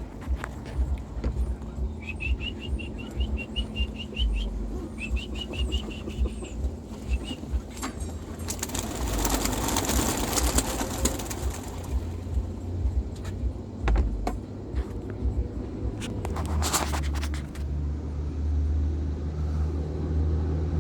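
Young homing pigeons being released from a basket: knocks and clicks of the basket being handled and a quick run of short, high squeaks. About eight and a half seconds in comes a burst of wing clatter lasting a few seconds as the flock takes off, and a low steady engine-like hum comes in near the end.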